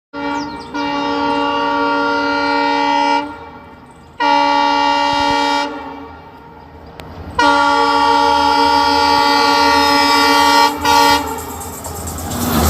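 Locomotive horn sounding three long blasts, the last broken briefly just before it stops. Near the end the train's rumble grows louder as it draws close.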